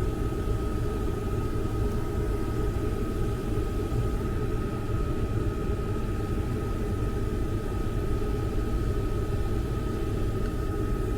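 Trane 96% high-efficiency gas furnace running: a steady low rumble of the blower and burners, with a thin, steady, high-pitched whine above it.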